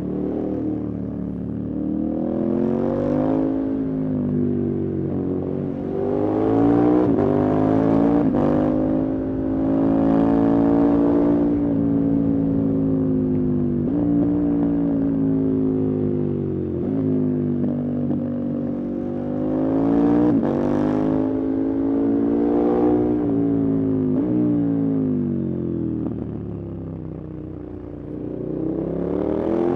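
Motorcycle engine under way, its pitch climbing and dropping again and again as the bike accelerates and shifts or eases off. It quietens briefly near the end, then climbs again.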